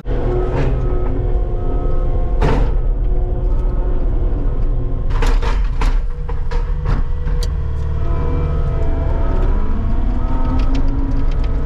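Diesel engine of a Cat skid steer running steadily, with scattered sharp clanks and clicks and a short high beep repeating about once a second.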